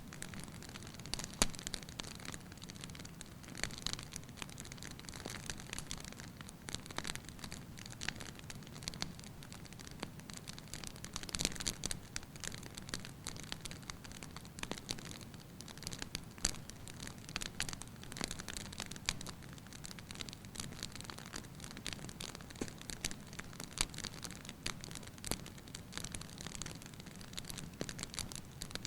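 Wood fire crackling in a fireplace: irregular pops and snaps over a steady low background noise.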